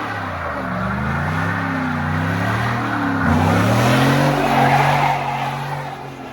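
Car engine revving up and down several times as the car is swung around in a slide, with tyre skidding noise swelling about four to five seconds in.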